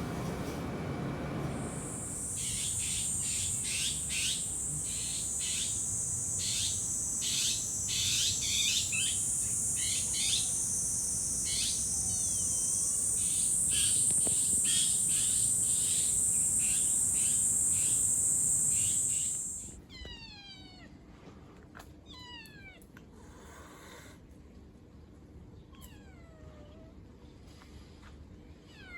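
Stray kittens mewing over and over in high, thin cries that fall in pitch. For most of the stretch a steady high-pitched buzz runs under them, then cuts off suddenly about two-thirds of the way in, leaving only the mews.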